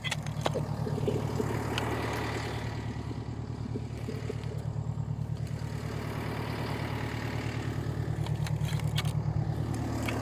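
Volvo skid steer's diesel engine running steadily with an even low throb, with a few light clicks over it.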